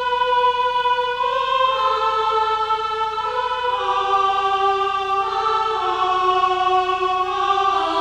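Choir-style vocal music: several voices sing held notes in a chord that steps slowly down in pitch.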